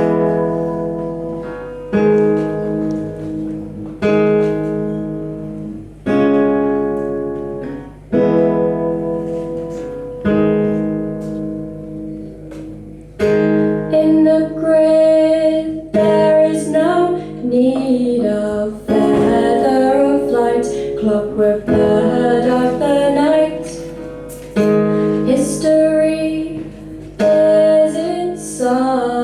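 Acoustic guitar playing a slow folk introduction, a chord struck about every two seconds and left to ring out. About halfway through, a woman's singing voice comes in over the guitar.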